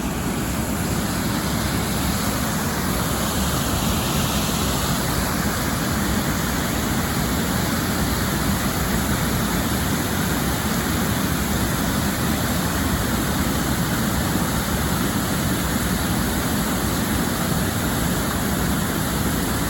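Floodwater rushing steadily over and through a culvert crossing.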